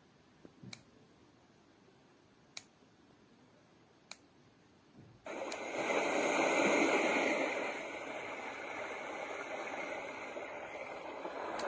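Three light clicks a second or two apart, then about five seconds in a steady rushing noise starts suddenly from a baby white noise machine's speaker, like running water.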